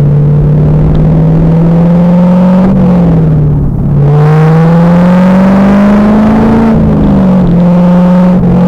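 The 2000 Pontiac Trans Am Firehawk's LS1 V8 is under load on track. Its pitch climbs, falls away about three seconds in, climbs again and drops back near the end to a steady note. The sound is picked up by a rear-mounted camera microphone.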